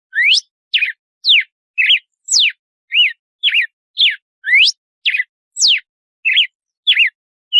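Red-cowled cardinal (galo-de-campina) singing its 'açoite' song: a steady run of short, clear whistled notes, about two a second. Each note is a quick sweep rising or falling in pitch, with brief silences between them.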